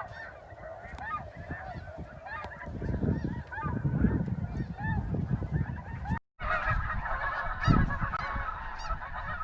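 A large flock of geese calling, many honks overlapping into a continuous din. Wind rumbles on the microphone in the middle. The sound cuts out for a moment about six seconds in, then the calling carries on.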